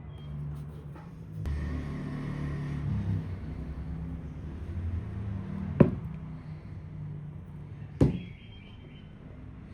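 Low steady rumble of a vehicle engine, swelling for a few seconds, with two sharp knocks about two seconds apart.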